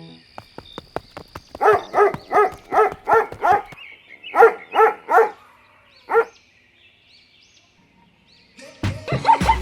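A dog barking: a quick run of about five barks, a short pause, three more barks, then a single bark.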